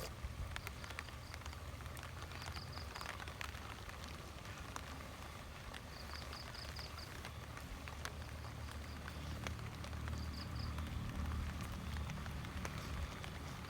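Rain falling, with scattered sharp drop taps over a steady hiss and a low rumble. A few times, a short run of four or five high chirps sounds.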